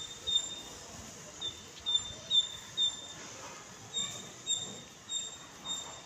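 A small bird calling: a short, high, clear note repeated about twice a second in runs, with brief pauses between the runs.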